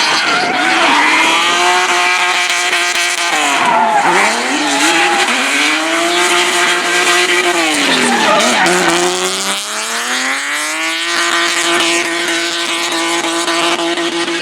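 Drift car's engine held at high revs as it slides, with tyres squealing. The revs drop and climb back about four seconds in and again near nine seconds, then hold steady and high.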